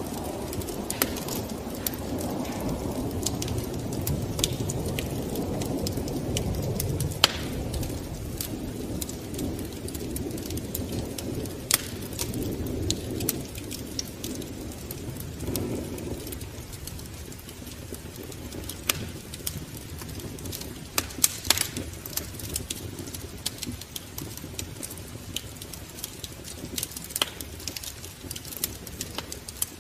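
Wood fire crackling in a fireplace: scattered sharp pops at irregular times over a low rumble, which is heavier in the first half.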